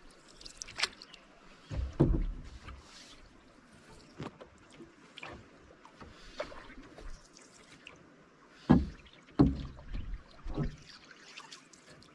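Canoe being paddled: paddle strokes with splashes and dripping water over a background of lapping water. A string of sudden knocks and splashes is heard, the loudest about two seconds in and twice around nine seconds in.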